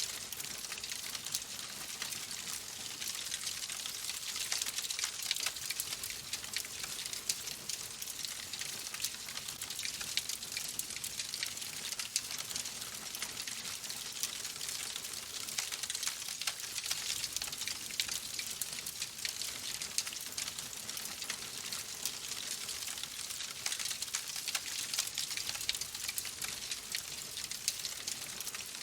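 Wood fire crackling steadily: a dense stream of small pops and snaps over a soft hiss.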